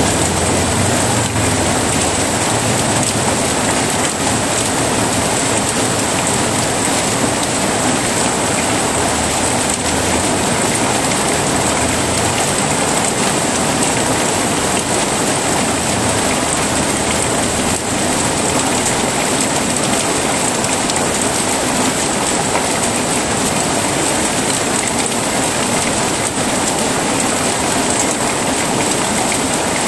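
Heavy rain falling steadily, with a low rumble, likely distant thunder, fading out about halfway through.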